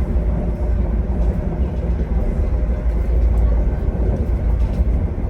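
Moving train running with a loud, steady low rumble.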